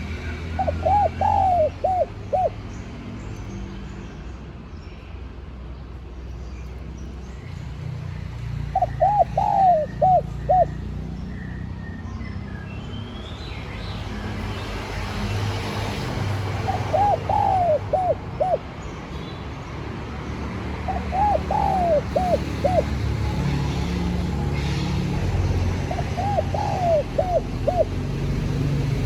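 Spotted dove cooing: five song phrases, each a quick run of short arched coo notes, a few seconds apart, over a steady low rumble.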